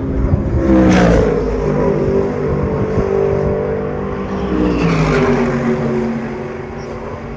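Race cars passing at speed, engines at high revs: two loud passes, about a second in and about five seconds in, each dropping in pitch as it goes by.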